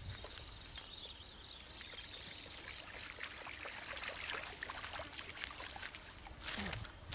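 Water splashing and trickling in irregular small splashes, growing busier about halfway through, with a louder splash near the end.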